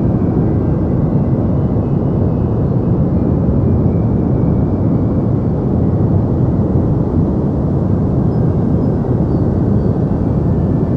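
Deep white noise: a steady, even low rushing noise with the highs rolled off, unchanging throughout.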